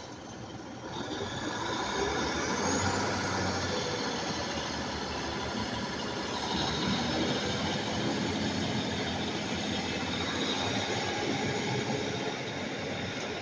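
Northern Class 150 Sprinter diesel multiple unit thrashing its diesel engines under full power as it pulls away, the sound building about a second in and then holding steady.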